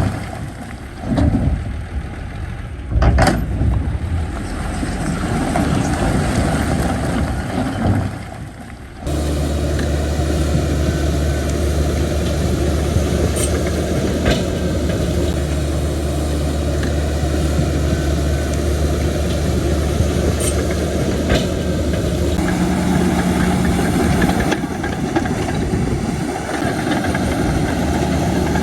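Heavy diesel earthmoving machinery at work. The first few seconds are uneven, with a sharp knock about three seconds in. From about nine seconds a diesel engine runs with a steady low hum.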